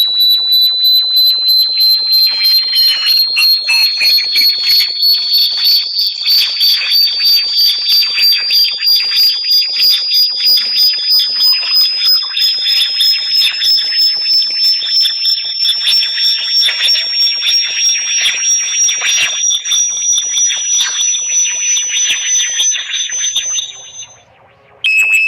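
Synthetic high-pitched bat-repellent tone, pulsing about three times a second while slowly rising in pitch. Near the end it fades out, and after a short gap a new, lower tone begins.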